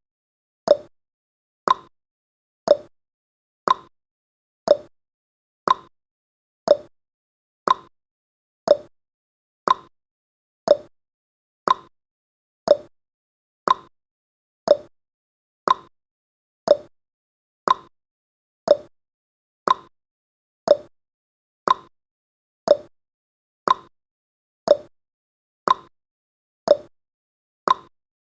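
Countdown timer's ticking sound effect: one short, sharp tick each second, steady and evenly spaced, with silence between ticks.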